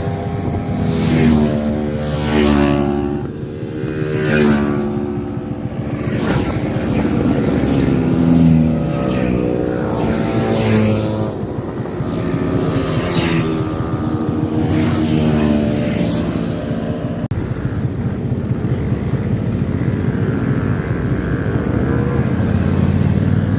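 Classic motorcycles and Vespa scooters riding past one after another, each engine's pitch swelling and falling as it goes by. About seventeen seconds in the sound changes abruptly to a steadier engine drone.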